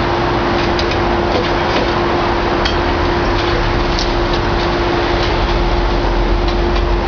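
Heavy demolition excavator at work: the engine runs steadily with a constant whine, while debris gives scattered clinks and knocks.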